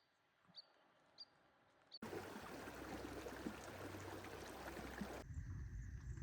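Outdoor trail ambience. Short, sharp high-pitched calls repeat about every half-second over near quiet, then about two seconds in the sound cuts abruptly to a steady rushing noise. Near the end it shifts again to a lower, rumbling rush.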